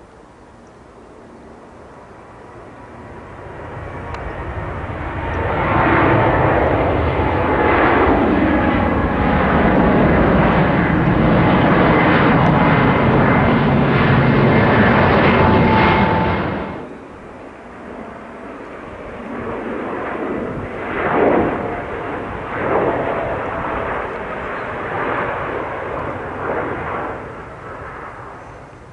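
Boeing 787 jet airliner's engines growing louder as it approaches. They run loud and steady with a high whine for about ten seconds, then cut off abruptly. A quieter jet sound with a slowly falling tone follows.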